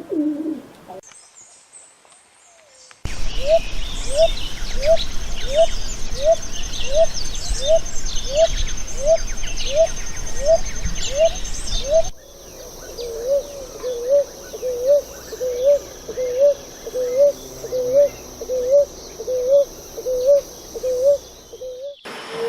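Bird calling: a long series of low, evenly repeated whistled notes, a little more than one a second, with higher chirping of other birds behind them. About twelve seconds in the recording changes to a second series of similar repeated notes, each with a wavering shape.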